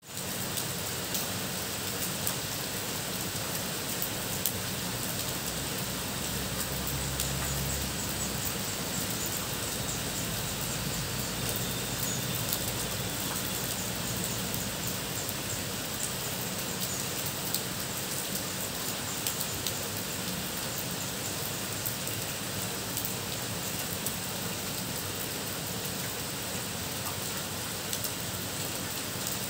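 Heavy rain falling steadily, with many individual drops ticking close by. A low rumble swells briefly about seven seconds in.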